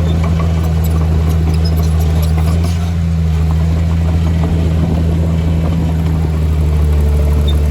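Heavy diesel engine of earthmoving machinery running steadily under a constant load, with scattered faint clinks over it.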